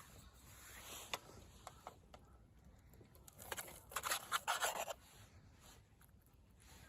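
Faint handling noises: a few sharp clicks, then a burst of scraping about halfway through.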